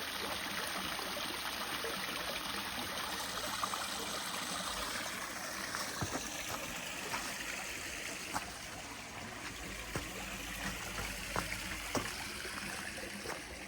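Small waterfall splashing steadily over rock, with a slight echo from the rock hollow behind it. A few faint clicks and taps sound over the water from about halfway through.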